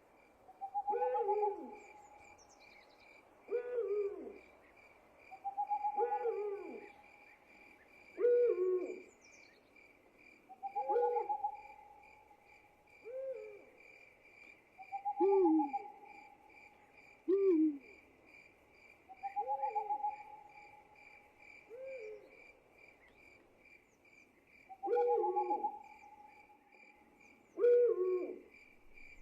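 Owls hooting over and over, a call about every two seconds: short falling hoots alternate with a longer, higher drawn-out note. Under them runs a steady, fast-pulsing high insect trill.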